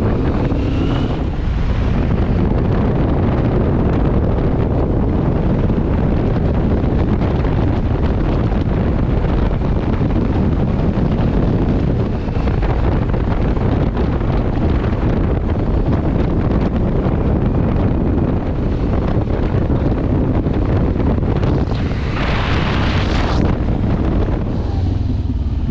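Wind rushing over the microphone of a Benelli TRK 702 motorcycle at riding speed, steady and loud, with the bike's low engine rumble underneath. A brighter hiss swells for about a second and a half around 22 seconds in.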